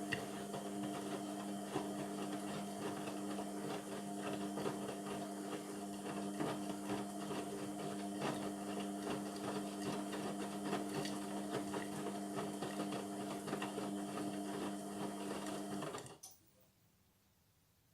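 Indesit MTWC71252WUK washing machine's motor turning the drum at a steady speed during the wash: a steady hum with many small clicks and knocks from the drum and load, stopping suddenly near the end.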